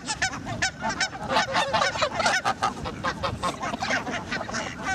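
A flock of geese honking, with many short calls overlapping in a continuous clamour as the birds crowd close to be fed.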